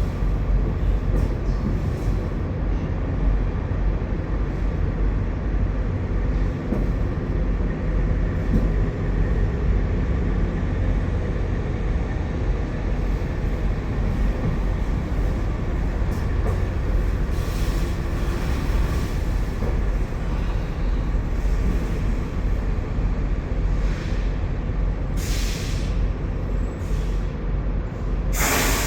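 Steady low rumble of a running engine, with a few short scraping noises over it, the loudest near the end.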